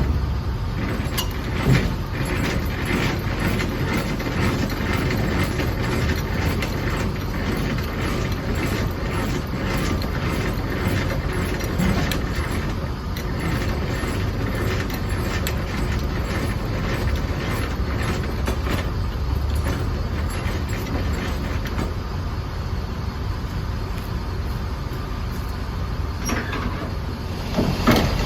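Semi truck on the move: a steady engine and road rumble with frequent short rattles and knocks.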